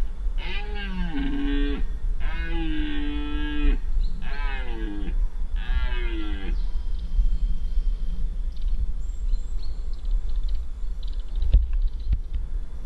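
Red deer stag roaring in the rut: four long, deep roars one after another over the first six or seven seconds, each dropping in pitch at its end. After the roars it is quieter, apart from a single sharp knock near the end.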